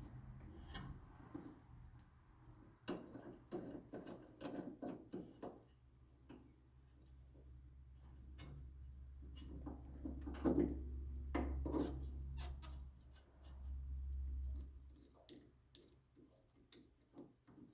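Faint clicks, knocks and scraping of metal hand tools being fitted and worked against a steering joint. A low steady hum runs beneath and stops about fifteen seconds in.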